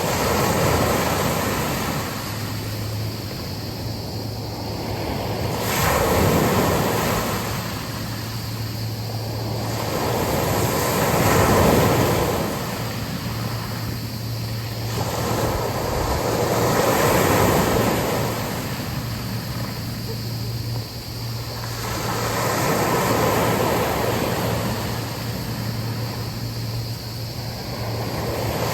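Sea waves breaking and washing up a beach, each surge swelling and fading about every five to six seconds, with wind.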